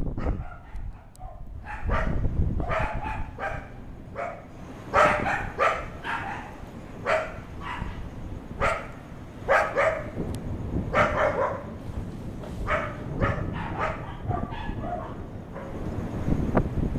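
A dog barking repeatedly in short barks, about one every half-second to second, over a low steady rumbling noise.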